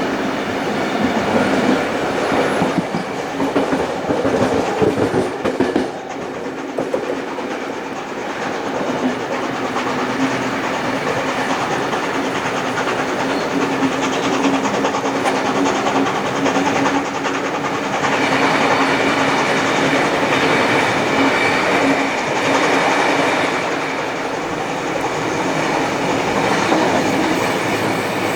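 Heritage passenger train hauled by steam locomotive 3801 running steadily along the track, with the continuous rumble and rattle of the carriages on the rails.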